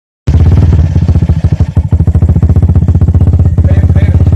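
Drag-racing motorcycle engine running steadily at low speed, very loud and close, a fast even chain of firing pulses with some clatter. It starts abruptly after a short gap.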